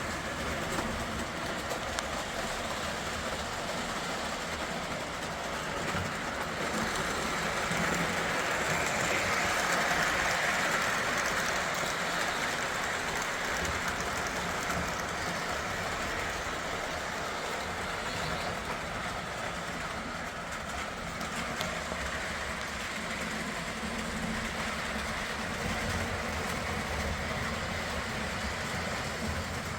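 O gauge model train running on its track: a steady rolling rumble and clatter of wheels on rail, louder for a few seconds about a third of the way in as the train passes close.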